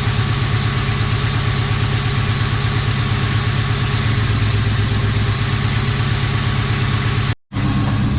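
Car engine idling with an uneven, rough pulse: a misfire that the owner traces to a faulty coil pack. The sound cuts out briefly near the end.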